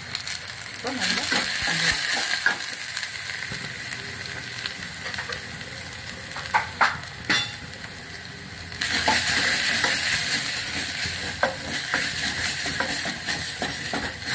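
Onions, green chillies and spice powders sizzling in hot oil in a stainless steel pressure cooker while a wooden spoon stirs them, knocking now and then against the pot. The sizzle swells about a second in, eases off, and swells again about nine seconds in.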